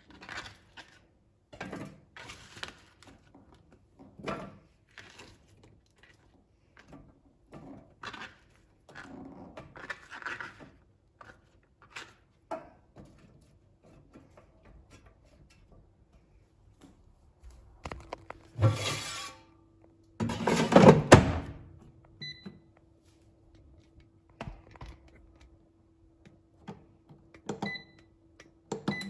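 Kitchen work sounds: a string of light knocks and clatters, with two louder bursts of clattering about two-thirds of the way in. A low steady hum sets in just before them and runs on, with a couple of faint short beeps.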